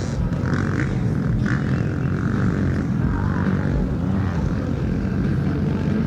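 Engine of a 2003 Yamaha YZ250F motocross bike, a 250 cc four-stroke single, running under throttle at a steady pitch.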